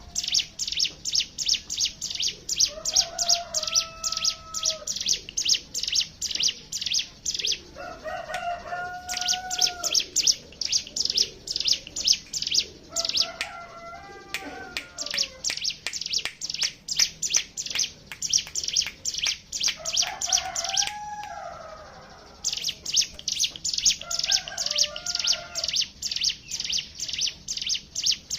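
Ciblek gunung (hill prinias) chattering together in long runs of rapid, sharp high chips, several a second, in the fast 'ngebren' style used as lure song. The runs pause briefly twice. Short, lower whistled phrases are heard in between.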